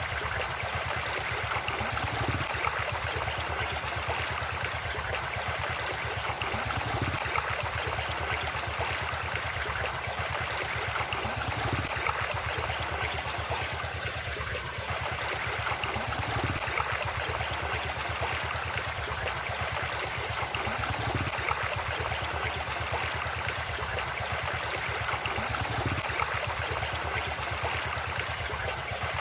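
River water flowing steadily, a continuous rushing, gurgling sound.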